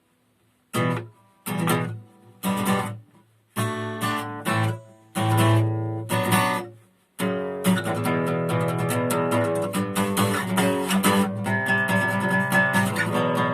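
Acoustic guitar playing a song intro: several short strummed chords with pauses between them, then steady continuous strumming from about seven seconds in.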